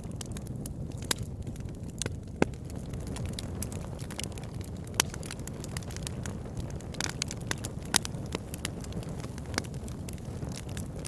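Campfire crackling: burning wood giving off irregular sharp pops and snaps over a steady low rumble, with a few louder pops scattered through.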